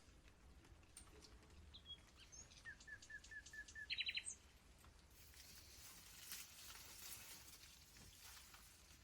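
Faint wild bird calls: a run of about six short, evenly spaced notes a few seconds in, followed at once by a quick burst of higher chirps, then a soft steady hiss.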